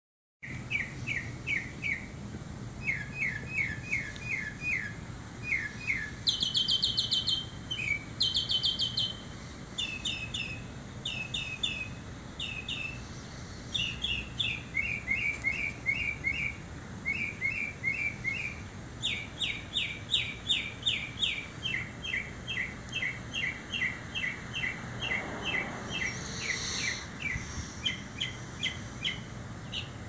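A bird singing a long, varied song of rapid repeated chirps: each short phrase is repeated several times before the bird switches to a new one, over steady low background noise.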